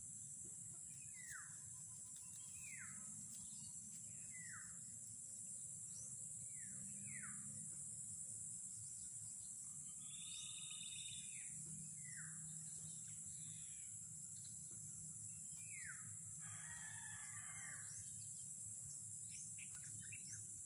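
Wild birds calling outdoors: a series of short whistles that sweep downward, repeated every second or two, with a few harsher calls in the middle and near the end. A steady high insect drone runs underneath.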